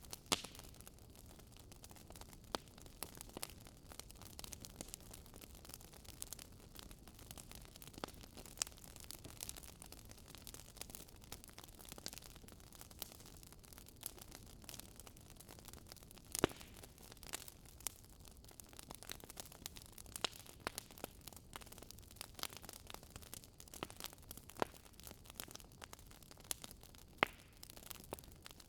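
Wood burning in a fireplace, crackling: frequent irregular pops and snaps over a low, steady hiss, with a few sharper snaps standing out.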